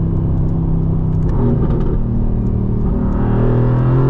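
Mercedes-AMG GT R's twin-turbo V8 running under way, heard from inside the cabin. The engine note steps down about a second in, then climbs steadily as the car accelerates near the end.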